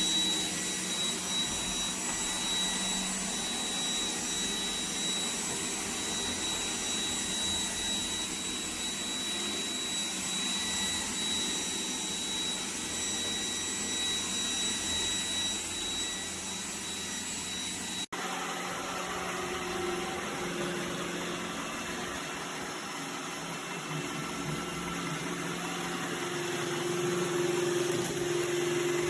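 Robot vacuum cleaner running: a steady motor and suction noise with a high-pitched whine. About 18 seconds in, the sound changes abruptly to a different, lower steady hum.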